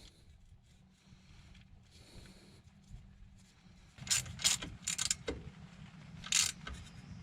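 Quiet at first, then a quick run of sharp metallic clicks and clanks about four seconds in and one more about two seconds later: tools and brake parts being handled during rear brake reassembly.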